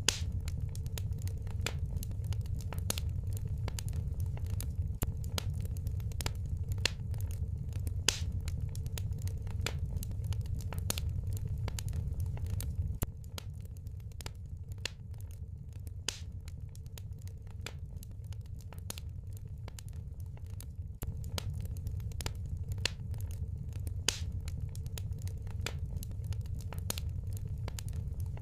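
Wood fire crackling, with frequent sharp pops over a low steady rumble, a little softer for several seconds past the middle.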